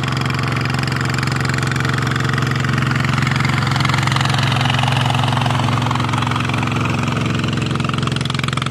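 Tractor engine idling steadily at an even speed.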